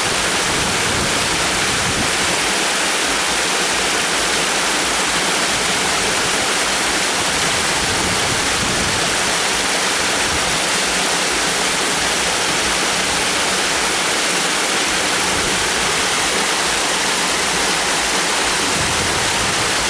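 Waterfall pouring: a loud, steady rush of falling water with no let-up.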